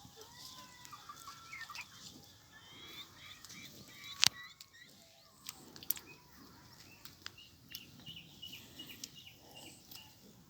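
Domestic chickens clucking and chirping softly, with many short calls, and a sharp knock about four seconds in.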